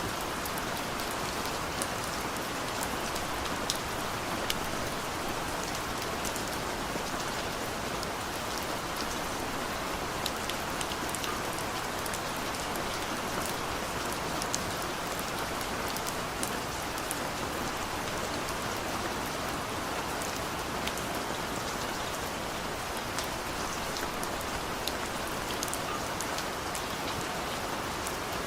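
Steady heavy rain falling, an even hiss with scattered sharp ticks of individual drops striking.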